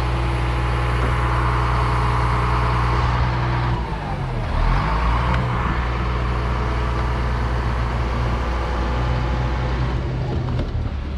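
A large engine running steadily, its speed dipping briefly and coming back up about four seconds in.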